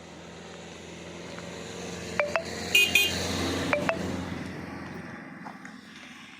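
A motor vehicle passes on the road, its engine growing louder to a peak about halfway through and then fading. Short horn toots sound around the loudest moment.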